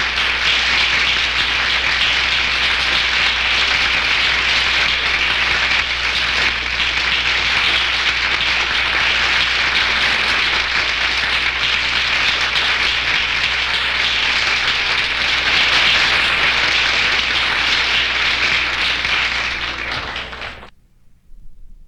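A large audience applauding, dense and steady, fading away about twenty seconds in.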